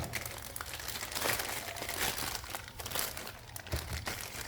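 Plastic packaging crinkling in irregular bursts as bagged suspension bushings from a parts kit are handled and shown, with a couple of soft handling knocks.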